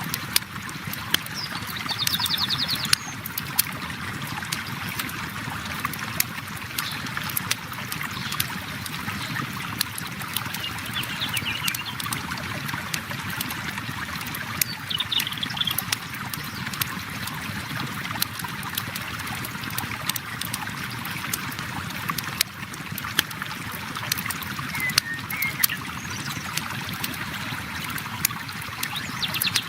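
Steady flow of a river with a campfire crackling over it in frequent sharp pops and snaps. A few short bird chirps come through now and then.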